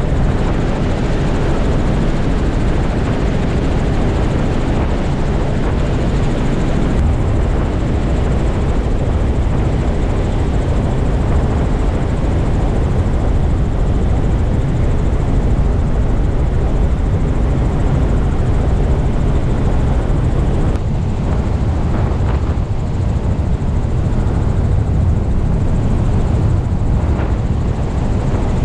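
Small tour helicopter in flight: steady engine and rotor noise with a strong low rumble.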